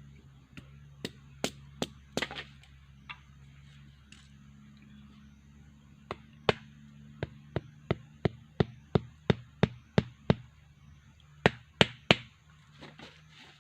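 A tool striking wood in sharp knocks: a few scattered strokes, then an even run of about three strokes a second, and two loud strokes near the end.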